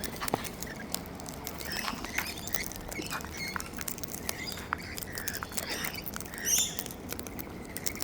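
Parrots feeding on seed: a quick, irregular scatter of small clicks and crunches from beaks pecking and cracking, with brief soft chirps and a louder, higher call about six and a half seconds in.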